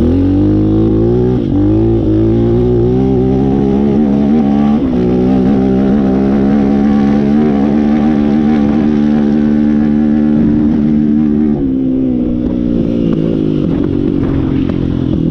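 Apollo RFN Thunder 300 pit bike's 300cc engine at full throttle, its revs climbing and dipping briefly at two upshifts about one and a half and five seconds in. It then holds steady at high revs until the throttle is shut near the end and the revs fall away.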